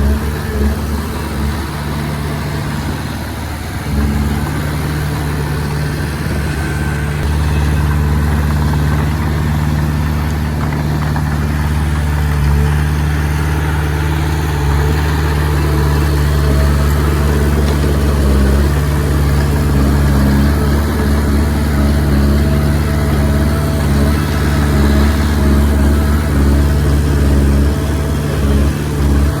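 Diesel engine of a Komatsu D20P bulldozer running steadily as it works, its note shifting a few times.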